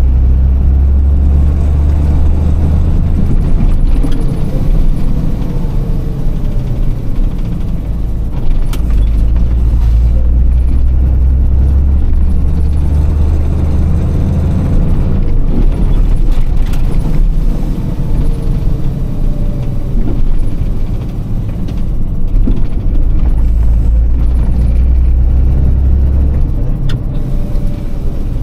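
Iveco truck's six-cylinder Tector diesel engine running while driving through town, a deep rumble that swells and eases with the throttle as the engine note rises and falls, with a few brief clicks.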